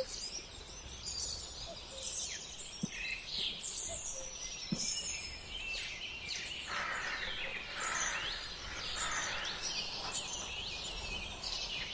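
Several small songbirds chirping and twittering at once: many quick, high-pitched notes and short sweeps overlapping, over a steady outdoor background hiss.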